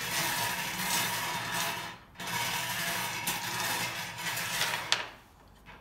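Numbered draw balls rattling and scraping together as they are mixed in the drawing container, in two spells with a short pause about two seconds in, and a sharp click near the end.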